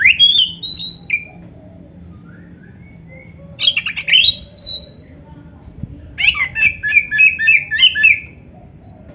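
Oriental magpie-robin singing three loud phrases of sharp whistles and harsh notes. The last phrase is a quick run of repeated notes about two seconds long.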